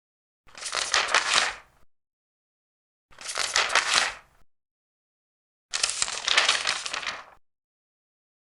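Large paper pages being turned, three times, each turn a papery rustle lasting a second or so, with dead silence between turns.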